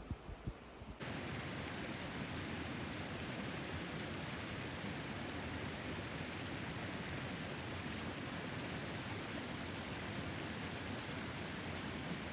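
Steady, even rushing of a flowing river, which starts suddenly about a second in after a few low thumps.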